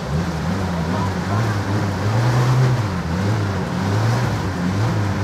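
Vehicle engine running with a low hum that rises and falls slightly while it wades through floodwater, over a steady rushing, splashing wash of water.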